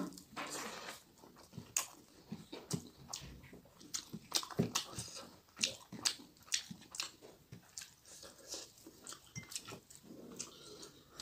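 Close-up chewing and lip-smacking of hand-fed rice and fish curry: an irregular run of short mouth clicks and smacks, several a second.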